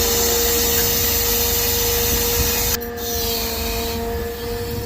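Machinery running with a steady whine and a loud hiss; the hiss cuts off abruptly a little under three seconds in, while the whine carries on.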